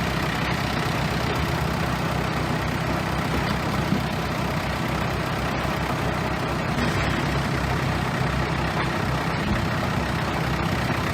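Bulldozer's heavy diesel engine running steadily with a deep, even drone.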